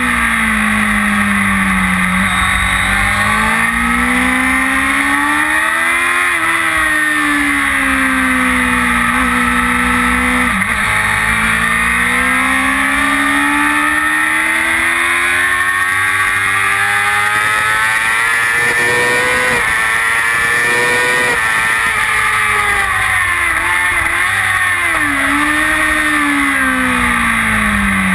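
Kawasaki ZX-6R's inline-four engine at track pace, its pitch climbing through the revs and dropping sharply at each upshift, with one long pull through the middle before the revs fall away and a cluster of short dips and rises near the end as it slows for corners. Constant wind noise on the microphone runs underneath.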